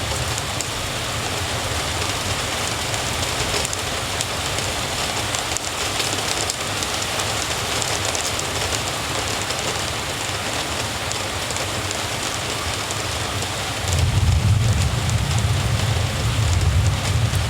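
Steady rain falling, an even hiss. A low rumble underneath swells about fourteen seconds in and holds.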